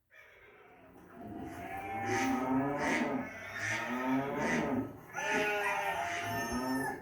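A cow mooing, in about three long drawn-out calls.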